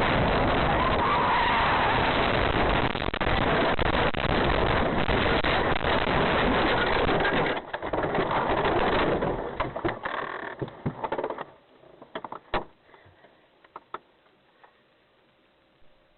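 Loud, steady road and engine noise of a moving car. About eleven seconds in it drops away to a faint background broken by a few sharp clicks.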